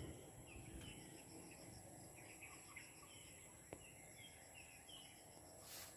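Near silence: faint outdoor ambience with small birds chirping now and then, and a single soft click about midway.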